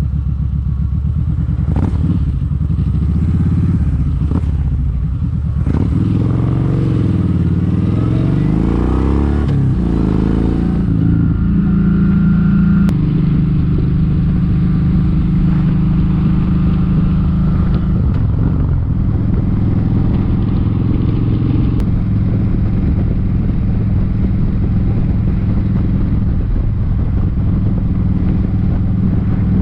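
Kawasaki Vulcan 1700 Vaquero's V-twin engine running while riding, its pitch rising and falling with a rushing hiss over the first third, then settling to a steady cruising note.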